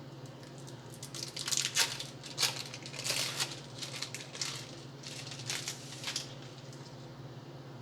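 Plastic food packaging crinkling and crackling as it is handled and opened, in an irregular string of short crackles for about five seconds, then stopping.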